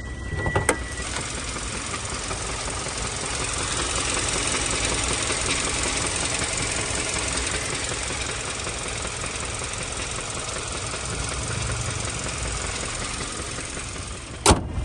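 Hyundai Sonata 2.4-litre four-cylinder engine running with a knock, the tapping that the owner hears come back and grow at idle and in park. A sharp click about a second in and another near the end.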